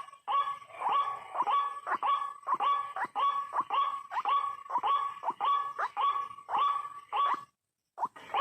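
White-breasted waterhen's repeated call, a fast series of sharp notes about three a second, cutting off suddenly about seven and a half seconds in.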